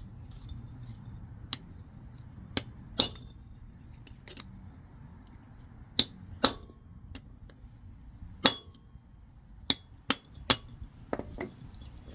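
Hammer striking a chisel, about a dozen sharp, irregularly spaced metallic clinks, splitting the old wheel bearing race off the hub's spindle at the cut made in it.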